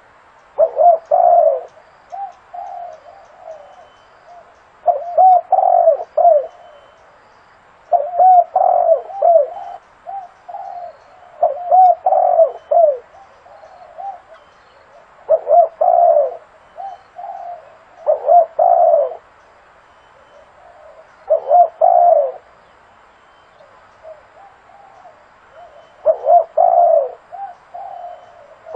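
Spotted dove cooing: a phrase of several low coos repeated about every three seconds, with softer coos in between.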